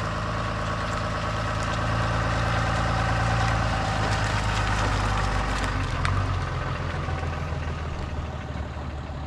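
Vehicle engine running steadily, a constant low hum that eases slightly near the end.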